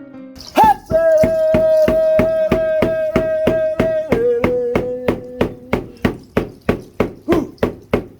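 A long, high held note that rises into place, then steps down to a lower note and stops, over sharp rhythmic strikes about four a second that carry on alone.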